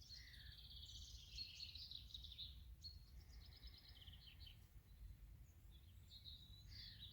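Faint birdsong outdoors: small birds singing quick, high trilling and chirping phrases, one after another, over a low steady rumble.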